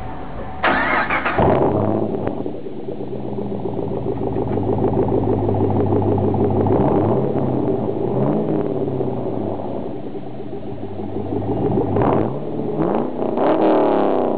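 Straight-piped exhaust of a Chevrolet Camaro SS's 6.2-litre V8 with the muffler deleted, running with a deep note and revved: a sharp blip about half a second in, steadier running through the middle, and a few quick revs near the end.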